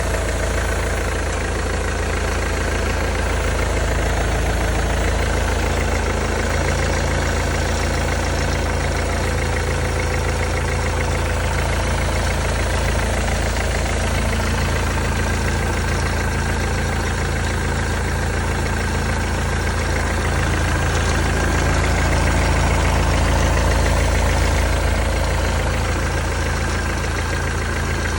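Mercedes-Benz W204 C-Class engine idling steadily, with an even running pulse.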